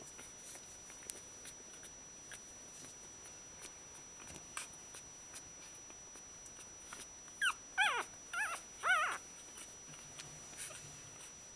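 One-week-old Shiba Inu puppies crying: four short, high, wavering cries in quick succession about two-thirds of the way through, with faint small clicks and scuffles otherwise.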